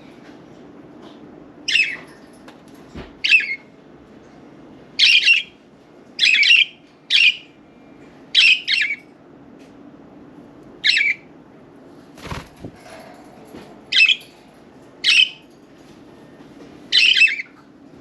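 Budgerigars calling: a string of short, loud, scratchy squawks, one every second or so, with a couple of dull thumps among them.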